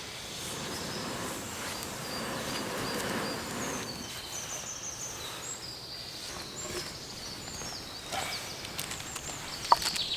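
Someone blowing steadily on a freshly relit campfire for about four seconds, a breathy rush. Faint high chirps follow, with a few sharp clicks near the end.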